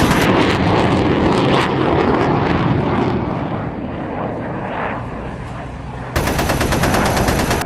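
Sound-effect machine-gun fire mixed with jet aircraft noise, fading after about three seconds, then a fresh louder burst of gunfire starting suddenly about six seconds in.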